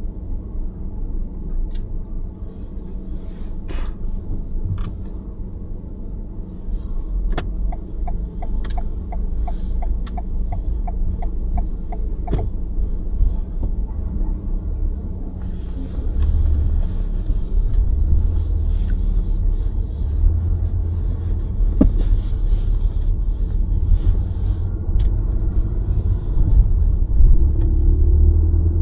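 Car driving on city roads, heard from inside: a steady low rumble of road and engine noise that grows louder about halfway through. For about five seconds in the first half there is a run of evenly spaced ticks, about two and a half a second.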